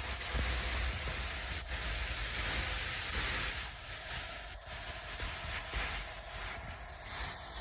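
Water pouring down a man-made waterfall, a steady rushing hiss.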